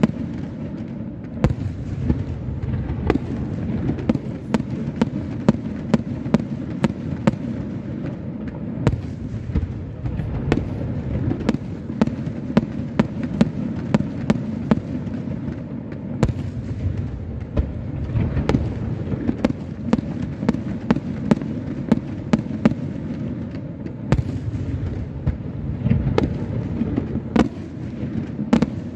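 Aerial firework shells bursting in a dense barrage: a continuous low rumble of overlapping reports, cut by sharp, irregular bangs several times a second.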